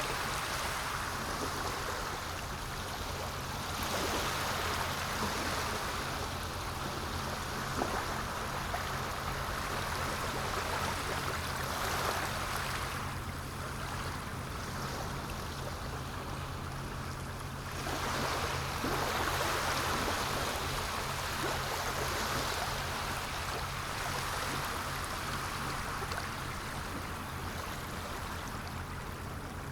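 Sea waves washing in: a continuous rush of surf that swells louder every several seconds and eases back between.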